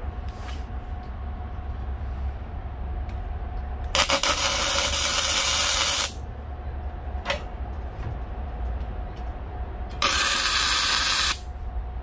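Two bursts of electric arc welding tack-welding steel plates together, a hiss-and-crackle of about two seconds and then one of just over a second near the end, each starting and stopping abruptly. A steady low hum runs underneath.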